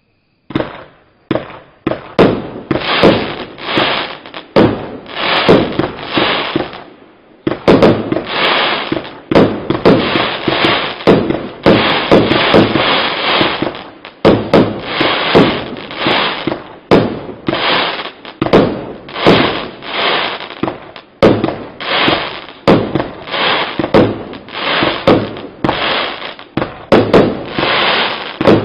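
A 49-shot fireworks battery cake of 1.25-inch shells firing in rapid succession. It goes off at about one to two shots a second, each a sharp report that trails off over under a second, with a brief lull about seven seconds in.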